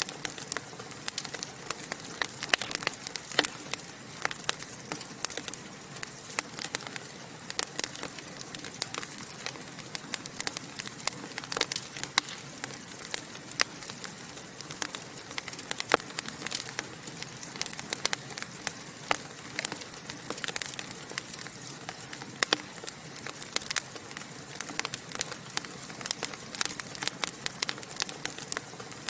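Wood fire in a fireplace crackling and popping: a constant stream of small sharp snaps with occasional louder pops.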